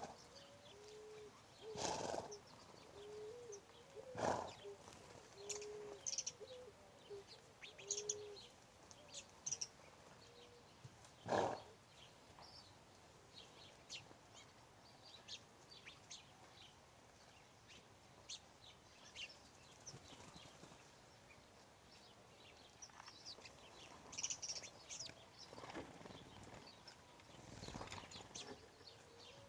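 Small birds chirping with short, high calls scattered throughout. In the first ten seconds a run of short, low notes repeats about once a second. A few louder thumps cut across, the loudest about eleven seconds in.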